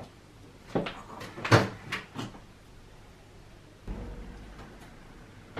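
A cupboard door being opened and shut, giving five or so knocks and clunks in under two seconds. A low, faint steady hum sets in about four seconds in.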